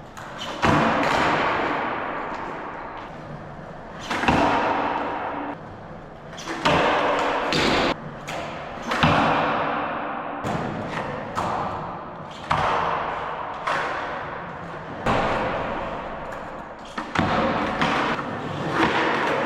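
Skateboard wheels rolling on concrete, broken every two seconds or so by a sharp board slap or landing thud, after each of which the rolling fades away: repeated backside 180 attempts. About eight such impacts in all.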